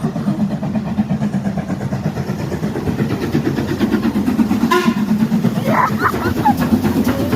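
A train's diesel engine running close by with a steady, rapid throb.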